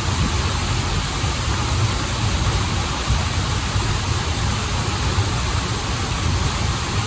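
Steady rush of running water from a stream and small waterfall, an even, unbroken roar with a deep low rumble.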